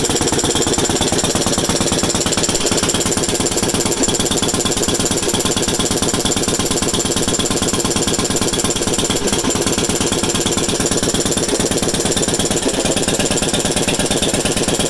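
Kelly and Lewis stationary engine running steadily with a rapid, even beat.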